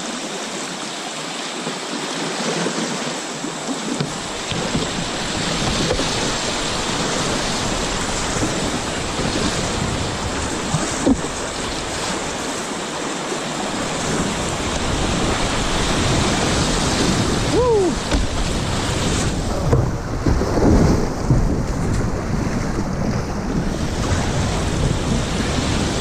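Steady rush of river water through a rapid, with wind buffeting the microphone; the noise grows a little louder and more uneven in the last several seconds.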